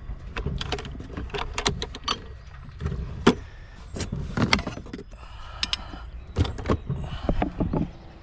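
Metal hand tools being handled: a string of sharp clicks, knocks and clinks, some ringing briefly.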